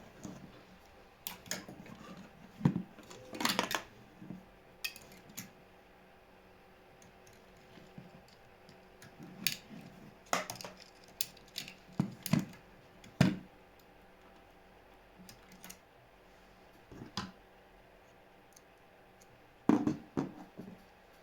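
Irregular clicks, taps and clatters of small hard parts and tools being handled, spaced out with quiet gaps and a short cluster near the end.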